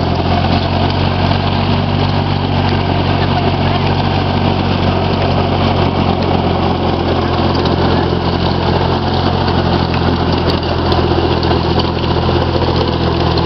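Orchard tractor engine running steadily at an even speed, with a constant low hum.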